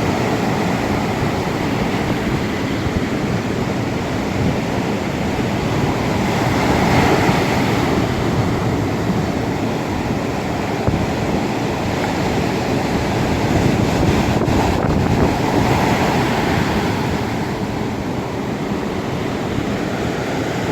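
Ocean waves breaking and washing on the shore, a steady rushing surf that swells a little twice, with wind buffeting the microphone.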